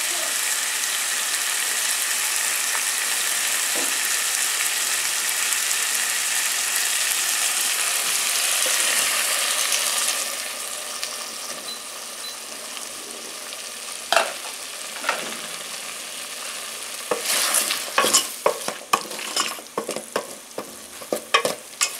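Beef stew frying in a metal pot, sizzling loudly and steadily; about ten seconds in the sizzle dies down as a cup of Royco mixed with water is poured in. From about seventeen seconds a wooden spoon scrapes and knocks against the pot as the stew is stirred.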